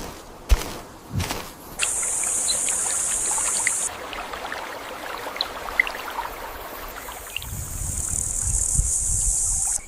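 High, steady insect buzzing like cicadas, starting about two seconds in, breaking off around four seconds and coming back near the end over a low rumble. A couple of sharp thumps come just before it.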